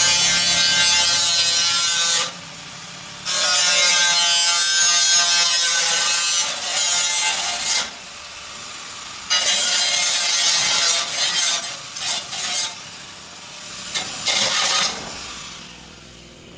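A workshop tool run in several bursts of loud hissing noise with a faint steady whine in it. Each burst lasts a second or two, starting and stopping sharply, with short gaps between them and a few quick blips near the end.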